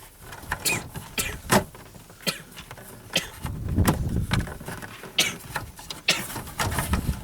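Irregular clicks and knocks of plastic dashboard trim being handled and pressed into place, about a dozen sharp taps with low fumbling noise between them.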